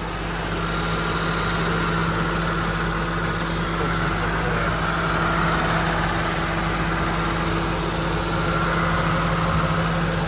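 The Ford 4.6-litre DOHC 32-valve V8 (Mustang Cobra engine) of a 2000 Qvale Mangusta idling steadily and evenly, heard over the open engine bay.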